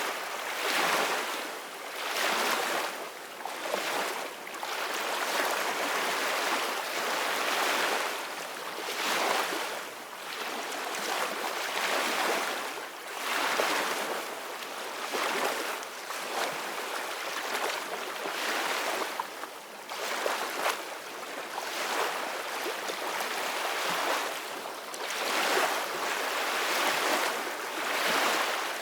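Ocean waves breaking on a shore, a continuous rush of surf that swells and ebs every two to four seconds.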